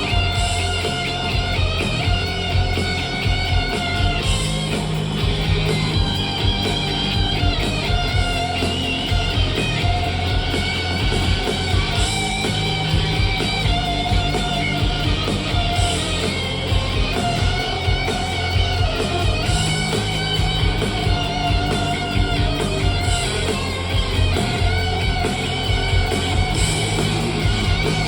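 Rock band music with electric guitar to the fore, playing steadily without a break.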